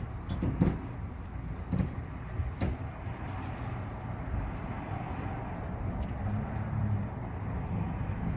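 Steady low outdoor background rumble with a few short light knocks in the first three seconds and a faint hum swelling briefly about six to seven seconds in.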